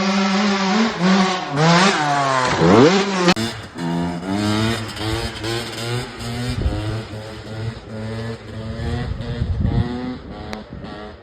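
Small dirt bike engine held at high revs, then revved up and down in quick swoops. About three seconds in, it cuts to another clip where the engine runs at a lower pitch, rising and falling with the throttle.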